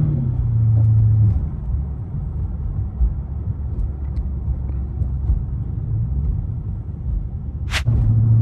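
Dodge Charger R/T's Hemi V8 running under way, a steady low drone that eases off after about a second. Near the end there is a brief sharp hiss, and then the engine pulls harder and louder.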